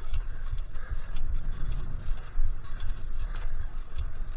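Wind buffeting the microphone during a bicycle ride, with irregular light ticking and rattling from the bike.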